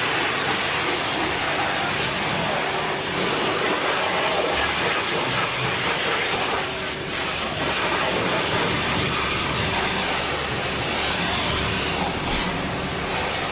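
Pressure washer spraying water onto a car, a loud steady hiss that dips briefly about seven seconds in.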